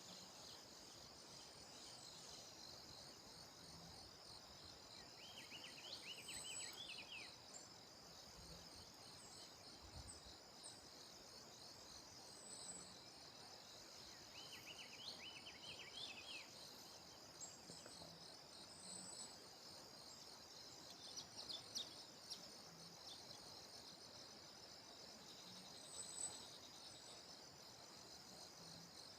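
Faint outdoor chorus of insects trilling steadily and high, with a bird's short phrase of quick chirps repeating about every nine seconds and a few brief high chips.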